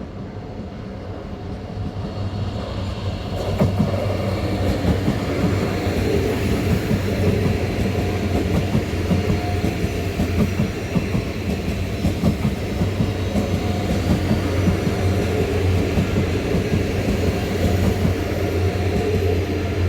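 Train running past at close range. It grows louder over the first few seconds, then holds steady with a low hum and the wheels clattering over the rail joints.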